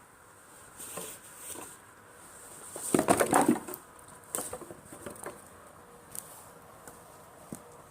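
Driftwood campfire crackling: scattered snaps and pops, with a dense, louder flurry of crackles about three seconds in, then sparser single pops.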